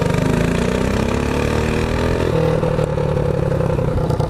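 Mini bike engine accelerating off the line: its pitch climbs for about two seconds, then holds steady at high revs.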